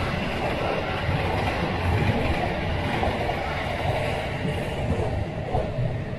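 Chiba New Town Railway 9100 series electric train running along the track, a steady rumble mixed with the sound of cars passing on the road.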